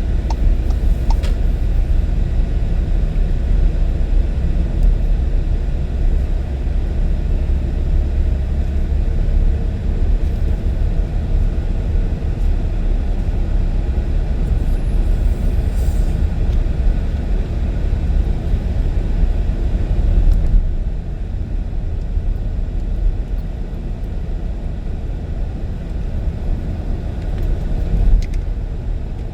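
A car being driven at road speed, with a steady low rumble of road and engine noise that eases slightly about two-thirds of the way through.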